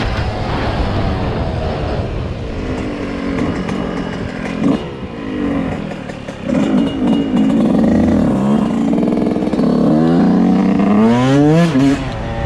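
Dirt bike engine revving up and down, louder and higher through the second half, with quick rising revs near the end before it falls off.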